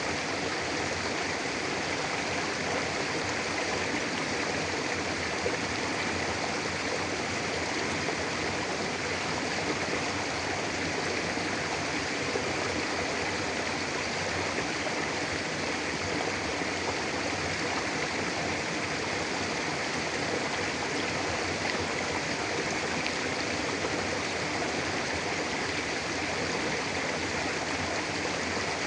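Mountain river flowing steadily over rocks, a continuous rushing and babbling of water.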